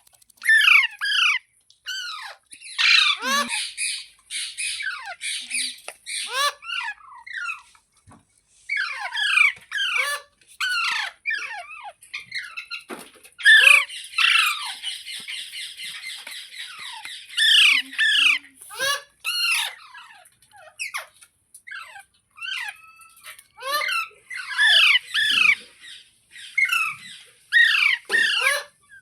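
Rose-ringed (ringneck) parakeet calling: a rapid string of short, sharp, falling squawks and chirps, with a longer harsh screech about halfway through.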